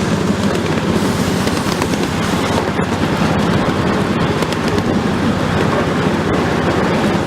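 Train car rumbling and rattling steadily while under way, a dense rapid clatter with no let-up, heard from on board.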